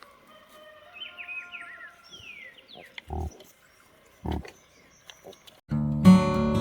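Thin chirping and quick rising whistled calls like birdsong, broken by two short loud grunts about three and four seconds in. Strummed acoustic guitar music starts near the end.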